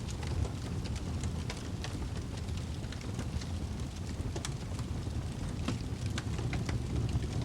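Wood fire crackling in a fireplace: many small irregular crackles and pops over a steady low rumble of the flames.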